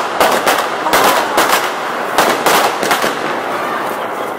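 Fireworks going off overhead, an uneven string of sharp bangs and crackles.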